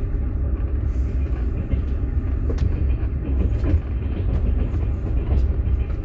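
Passenger train running, heard from inside a platskart sleeper carriage: a steady low rumble of wheels on rails with scattered light clicks and knocks.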